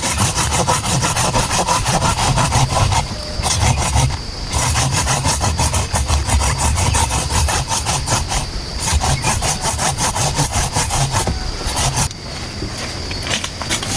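Saw cutting bamboo in quick, steady strokes, with a few brief pauses and lighter sawing near the end.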